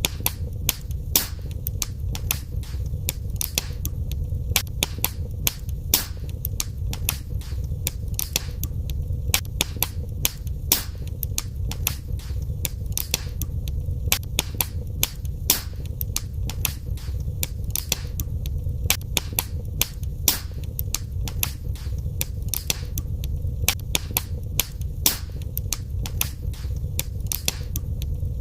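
Wood fire burning in a fireplace: a steady low rumble of the flames under frequent sharp crackles and pops of the burning logs.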